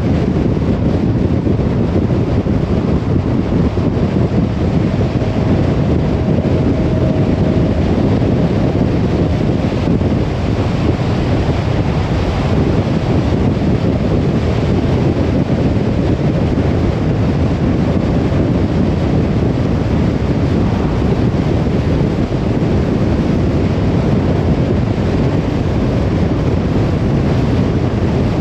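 Steady road noise of a car driving, a low, even rumble of tyres and engine.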